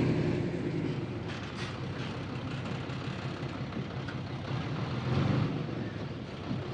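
Heavy diesel engine of earthmoving machinery running, easing to a lower steady hum early on and swelling briefly about five seconds in.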